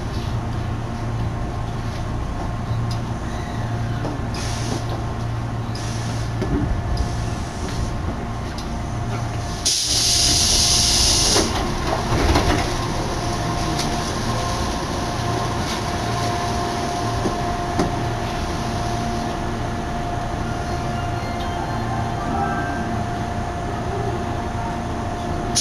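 Tobu Urban Park Line commuter train running, heard from inside the carriage: a steady low rumble with a thin steady whine. About ten seconds in, a loud hiss lasts for over a second.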